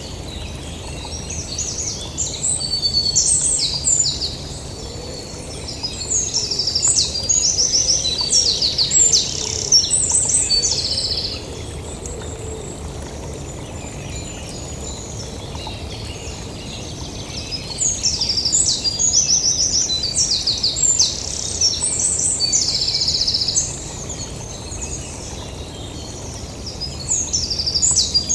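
Songbirds singing in bursts of quick chirps and rapid trills, with quieter gaps of a few seconds between the bursts, over a steady low rumble.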